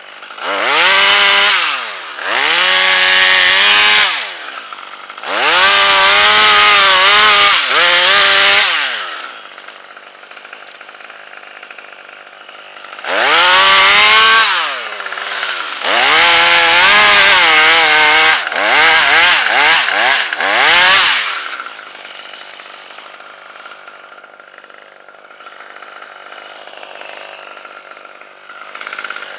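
Gas chainsaw revving to full throttle in repeated bursts of a few seconds each, cutting red oak wood, and dropping back to a low idle between cuts, with a long idle near the end.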